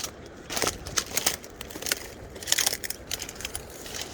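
Footsteps crunching and crackling through dry brush and old plant stalks, a burst of crackles roughly every half second to second.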